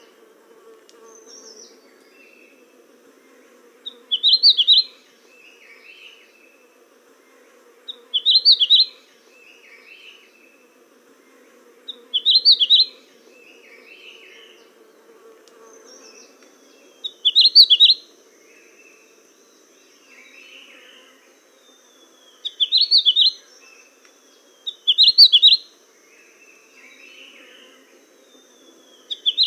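Songbirds chirping: a loud short chirped phrase every few seconds, with softer calls in between, over a low steady drone. A thin high steady tone joins about halfway through.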